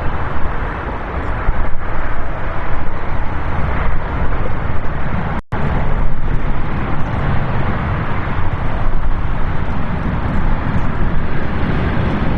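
Boeing 777 freighter's jet engines, a loud, dense rumble heard outdoors with wind buffeting the microphone. The sound cuts out for a split second about five and a half seconds in, then carries on the same.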